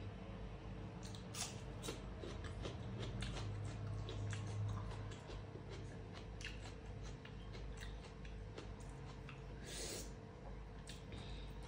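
Close-up mukbang eating sounds of someone eating dhido and curry by hand: chewing with many short wet mouth clicks and smacks, a crisper click about ten seconds in, over a faint steady hum.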